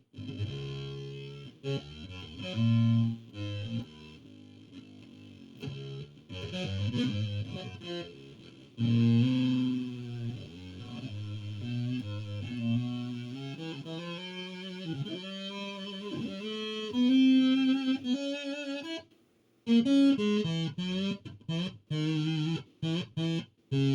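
Instrumental music from a pitched instrument, with notes and held tones that start and stop irregularly and a break of about a second three-quarters of the way through.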